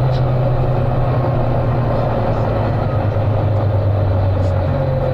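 Volvo B9TL double-decker bus's diesel engine thrashing under load, a loud steady drone over road noise, dipping slightly in pitch about three seconds in.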